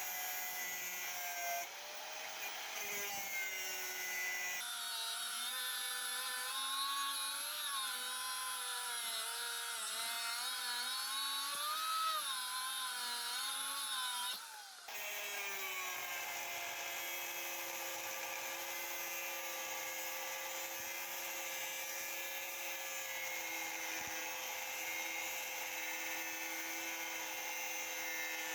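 Electric hand power tool running with a steady motor whine. The pitch wavers up and down in the middle stretch, as if under varying load, and changes abruptly about five and fifteen seconds in.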